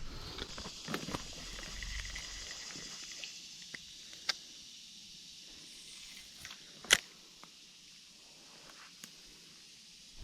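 Fishing tackle being handled: a soft whir for about three seconds, then a few scattered sharp clicks.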